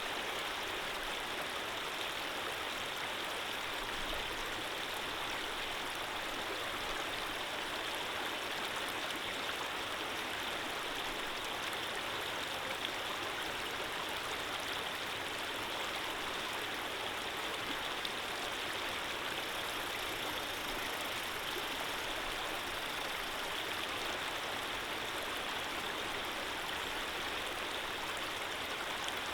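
Running water flowing steadily: an even, unbroken rush with no drips or splashes standing out.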